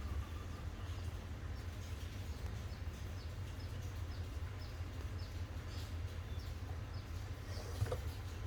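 Low steady rumble with a bird chirping over and over in the background: short, high, falling notes about two a second. A single click near the end.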